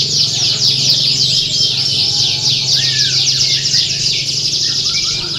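Canaries singing in a dense, unbroken chorus of rapid overlapping trills and chirps, with a steady low hum beneath.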